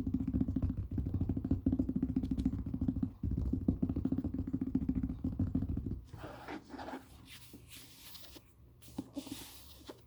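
A book handled close to the microphone: a loud, dense, fast-fluttering rumble for about six seconds, then softer, separate rustles of paper.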